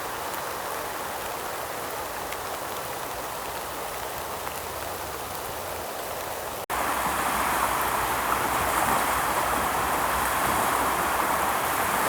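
Steady heavy rain. About two-thirds of the way through there is a sudden change to a louder, fuller rush of water.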